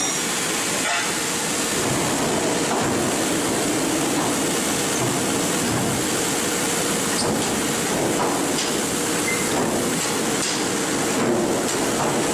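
Sawmill machinery running: a steady mechanical din with a constant hum and a few faint knocks.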